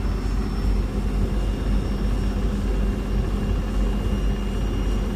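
Beko WS832425s front-loading washing machine spinning its drum: a steady, loud rumble with a low hum, while water sprays around inside the drum.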